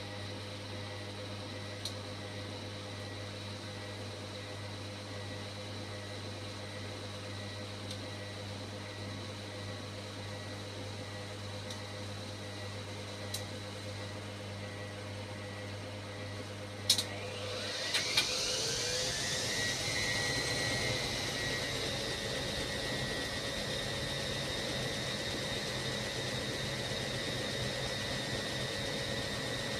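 Hoover Logic washing machine humming steadily, then a couple of clicks, then the drum motor winds up into a spin. Its whine rises quickly in pitch and settles into a steady high whine a couple of seconds later.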